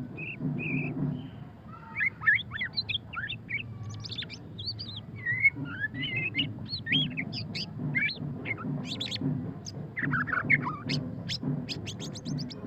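White-rumped shama singing a varied, rapid song of whistled phrases, rising and falling glides and chattering notes, with a fast run of sharp, clipped notes near the end.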